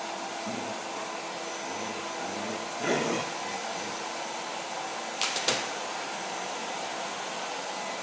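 Vacuum cleaner running steadily, its motor whirring under a rush of air. About three seconds in there is a brief louder sound, and just after five seconds three quick sharp clicks.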